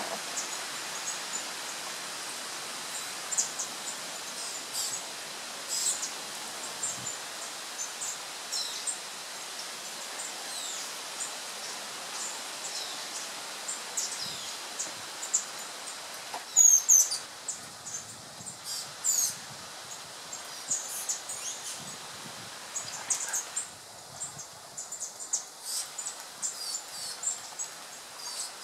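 Many small birds chirping and calling, short high notes scattered throughout, with a brief cluster of louder chirps about two-thirds of the way through, over a steady background hiss.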